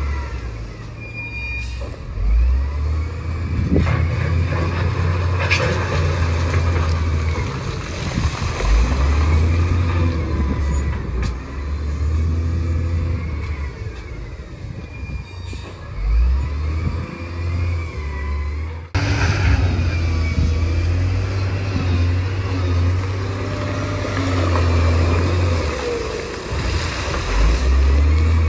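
Bulldozer's diesel engine working under load, repeatedly revving up and easing off, with squeals and clanks from the machine. The sound breaks off abruptly and picks straight up again about two-thirds of the way through.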